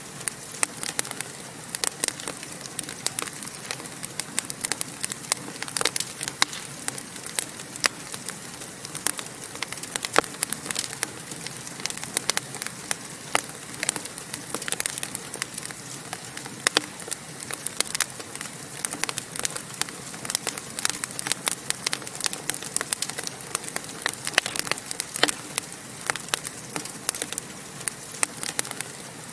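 Wood fire crackling in a fireplace: a steady hiss of flames with irregular sharp pops and snaps throughout.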